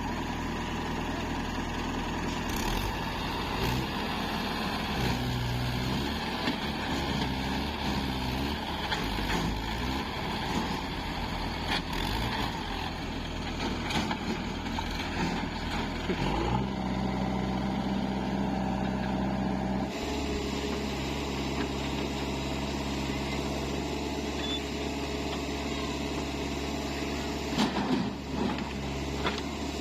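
Diesel engines of a backhoe loader and farm tractors running steadily. The engine note changes abruptly about two-thirds of the way through.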